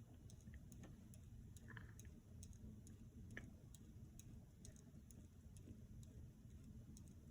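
Near silence: a faint, steady low hum of a Hampton Bay Landmark III Plus ceiling fan running, with light ticks about two or three times a second.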